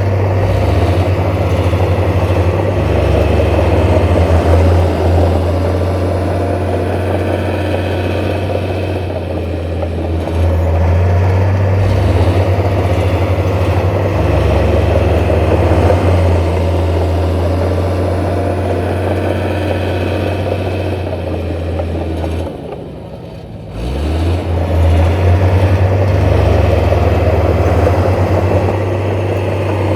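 Heavy diesel engine of earthmoving machinery running steadily with a deep hum and rumble; it drops away briefly about three-quarters of the way through, then picks up again.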